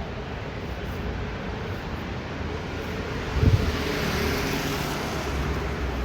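City street traffic: a vehicle passes close by, with a short low thump about three and a half seconds in and a swell of tyre and engine noise that then fades away.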